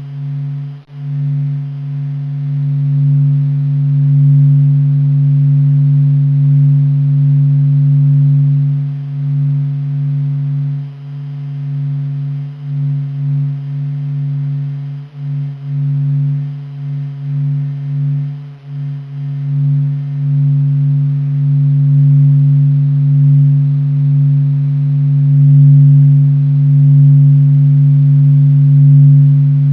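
A deep, steady humming drone, with a fainter tone an octave above and thin higher overtones. Its loudness wavers, dips in the middle and swells louder near the end. It is the kind of 'sound of space' recording that is presented as a NASA recording.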